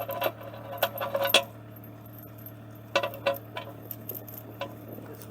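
Steel chain links clinking and rattling as a chain is wrapped around a smooth iron ground rod. The clinks come in a cluster over the first second and a half and again about three seconds in, over a steady low hum.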